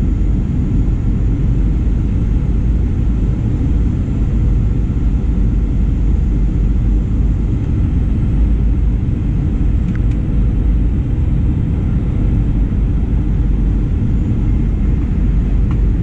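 Steady low rumble inside the passenger cabin of a Boeing 737-900ER airliner: the noise of its CFM56-7B turbofan engines and the airflow, unchanging throughout.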